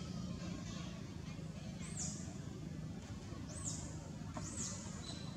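A bird's short, high chirps, each rising and falling, three times about a second or two apart, over a steady low hum.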